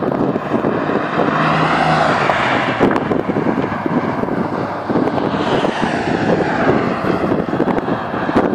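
Heavy wind buffeting on the microphone, with the Porsche 993 Carrera 2's air-cooled flat-six exhaust through Dansk 300S sports mufflers partly buried beneath it, its pitch rising and falling twice.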